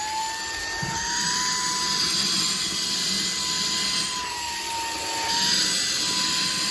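Cordless handheld vacuum cleaner (XREXS) running on its highest suction setting: a high motor whine that climbs in pitch during the first second as it steps up from the lowest level, then holds steady over a rush of air, dipping slightly now and then.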